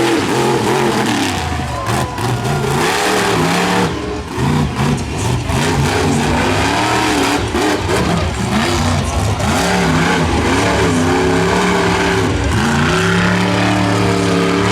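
Monster truck's supercharged V8 engine revving hard, its pitch climbing and dropping again and again as the truck drives its freestyle run.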